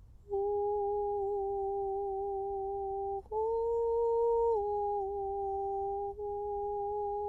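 A woman humming long sustained notes, vocal toning on a single pitch. After a short break for breath about three seconds in, she holds a slightly higher note for a moment, then returns to the first pitch.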